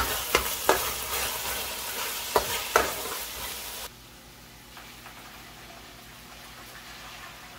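Bora (long beans) sizzling as they fry in a large aluminium pot, stirred with a metal spoon that clicks sharply against the pot a few times. The sizzling cuts off suddenly about four seconds in, leaving a faint low steady hum.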